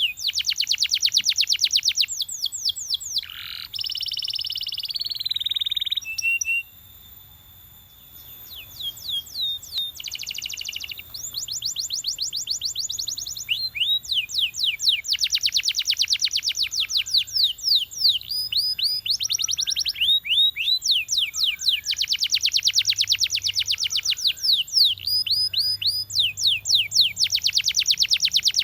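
Belgian canary singing: phrase after phrase of fast trills made of repeated downward-sweeping notes, with a buzzier rolled phrase a few seconds in and a brief pause just after it.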